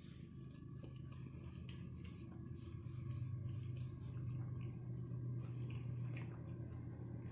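A person chewing a bite of chicken sandwich close to the microphone, with soft, irregular mouth clicks, over a steady low hum.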